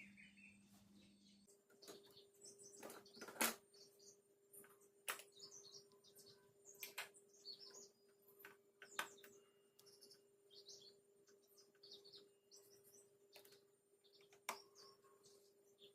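Faint chirping of small birds throughout, with several sharp light clicks and knocks, the loudest about three and a half seconds in. A faint steady hum starts about a second and a half in.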